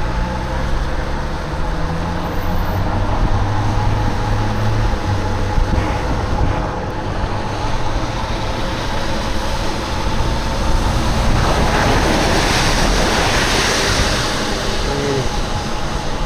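Wind rumbling on the microphone of a moving bicycle, with road traffic alongside. An engine's pitch rises in the first few seconds, and about twelve seconds in a vehicle passes with a swelling hiss of tyres on wet road.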